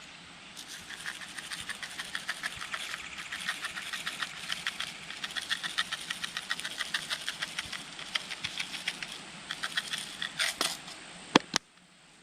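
Bacon bits being shaken out of a container onto biscuits: a steady run of small, quick clicks and rattles, with a few sharper clicks near the end.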